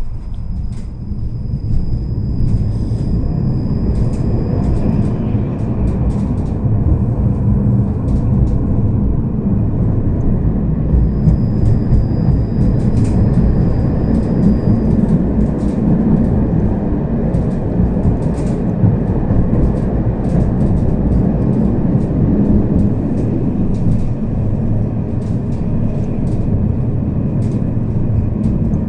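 Tram running on its rails, heard from inside the car: a steady low rumble that grows louder in the first couple of seconds, with scattered clicks and two stretches of a faint high whine.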